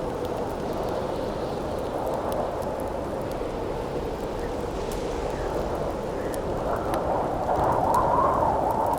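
Howling wind with a steady rush, its wavering moan swelling louder near the end, over faint scattered crackles of a campfire.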